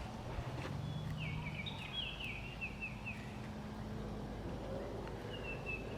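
A songbird singing a quick series of short, falling, high notes about a second in, with a few more notes near the end. A low steady hum runs underneath.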